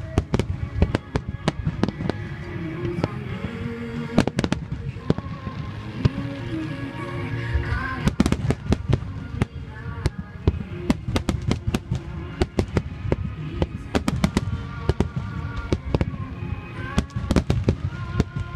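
Aerial firework shells bursting in rapid succession: a continuous volley of sharp bangs and crackles over a low rumble, with music-like sustained tones playing underneath.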